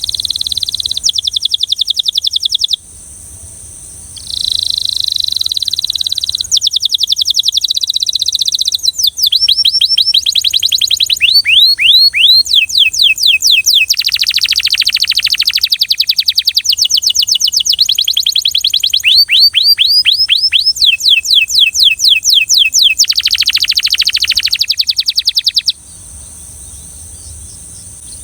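Belgian canary singing long phrases of rapid trills and rolling repeated notes, with runs of quick falling whistles in the middle. It breaks off briefly about three seconds in, then sings on without pause until the song stops a couple of seconds before the end. A faint steady high hiss lies underneath.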